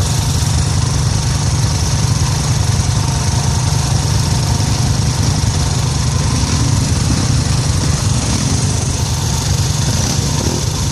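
Steady low rumble of a running vehicle, with an even hiss over it and no change in pace.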